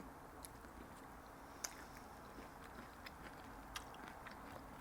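Faint chewing of cheese-dipped vegetables, with a few scattered mouth clicks.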